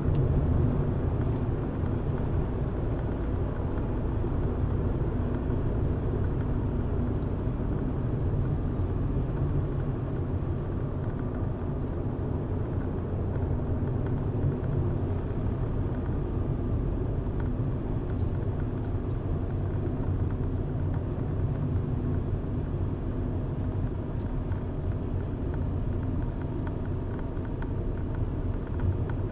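A car being driven, its engine and tyre road noise making a steady low rumble throughout.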